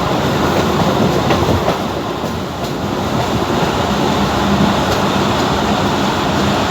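Passenger train running along the track, heard from inside the carriage: a steady rumble of wheels on rail with scattered clicks. A low steady hum joins in about halfway through.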